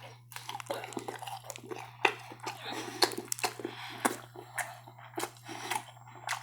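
Close-up chewing and mouth sounds, irregular wet clicks and smacks, as someone eats a soft cheesy eggplant rollatini, over a steady low hum.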